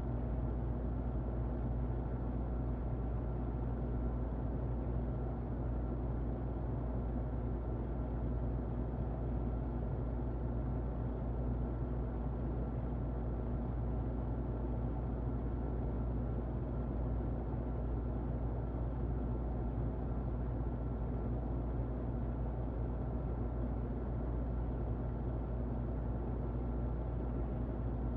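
Muffled electric fan running steadily: an even rushing noise, heaviest in the bass and dull in the treble, with a faint steady whine above it.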